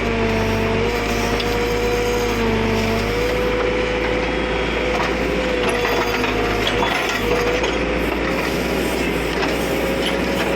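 JCB backhoe loader working: its diesel engine runs steadily with a wavering whine that shifts slightly in pitch, mixed with scattered metallic clicks and clanks.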